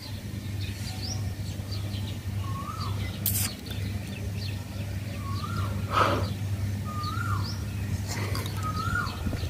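Small birds chirping repeatedly, with a lower call that rises and falls in pitch heard about four times, over a steady low hum; a brief louder sound stands out about six seconds in.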